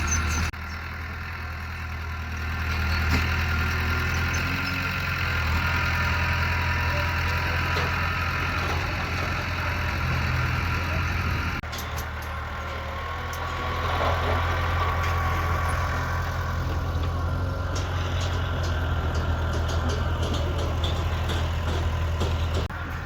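Bulldozer's diesel engine running steadily with a low hum, and faint clicks and rattles in the second half. The sound changes abruptly twice, about half a second in and about halfway through.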